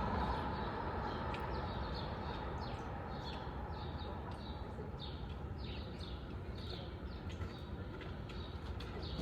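A bird calling with short, high, falling chirps about twice a second, over a steady low rushing background.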